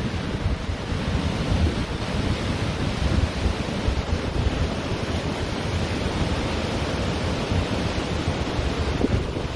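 Ocean surf washing steadily onto a beach, with wind buffeting the microphone in a gusty low rumble.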